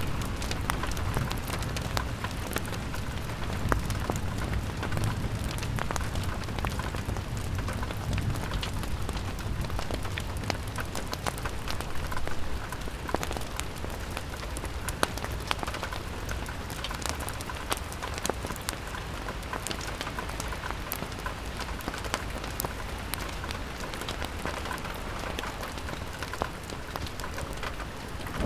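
Steady rain falling on a window pane, with many sharp scattered ticks of drops and fire crackles over a low, even rumble of wind.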